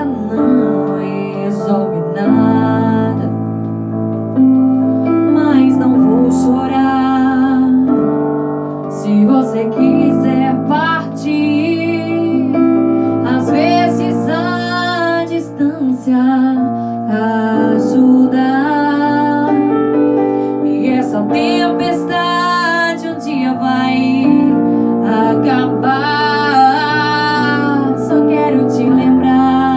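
Slow ballad played on piano, with a female voice singing over it in long held notes with vibrato.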